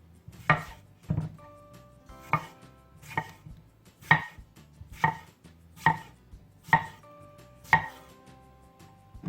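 A steady series of sharp knocks on a hard surface, about nine strikes roughly a second apart, over faint background music.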